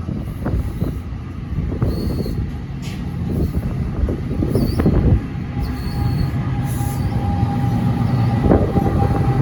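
A train passing on the tracks: a loud low rumble of wheels on rails with repeated knocks, and a steady high whine that comes in about six seconds in.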